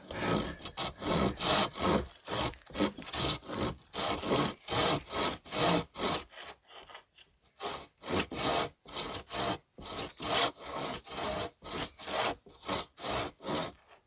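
Hand saw cutting through a firewood log in steady back-and-forth strokes, about two a second, with a brief pause midway and a stop near the end.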